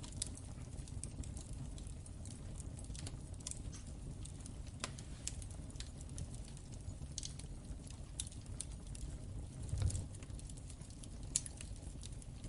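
Wood fire crackling in a fireplace: irregular sharp pops and snaps over a steady low rumble of the flames, with a louder, deeper pop about ten seconds in.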